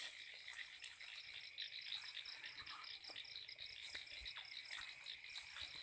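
Night insect chorus, mainly crickets: faint, steady, high-pitched chirping in rapid repeated pulses.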